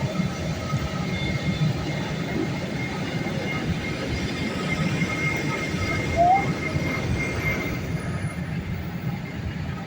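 Steady low rumble and air hiss of an Airbus A320 cabin on the ground, with faint steady whine tones running through it. A brief rising squeak sounds about six seconds in.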